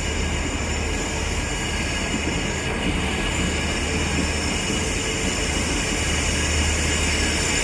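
High Speed Train (InterCity 125) pulling out, its rear Class 43 diesel power car running steadily with a continuous low drone and a faint steady whine, growing slightly louder near the end.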